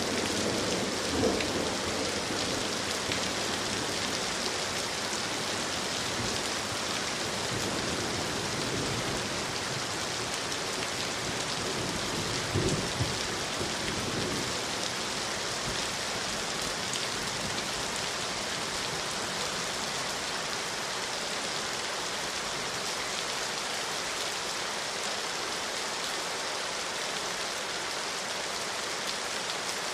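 Steady rain falling, an even hiss of many drops, with two brief low thuds, one about a second in and one near the middle.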